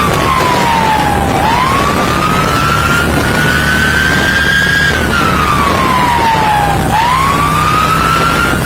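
Police siren on its wail setting, sweeping slowly down and back up about twice, over a steady low rumble of engine and road noise.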